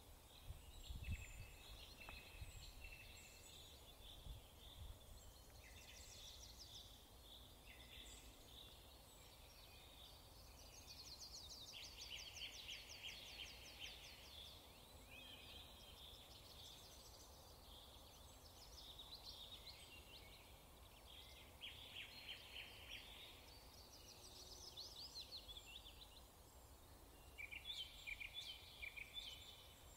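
Faint chirping and trilling of small birds, with many short calls overlapping throughout, over a low background hiss. A few faint low knocks come in the first few seconds.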